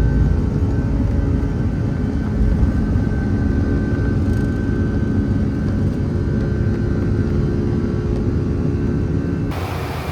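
Fixed-wing aircraft engines running steadily: a loud low rumble with a steady hum. Near the end it cuts suddenly to an even hiss.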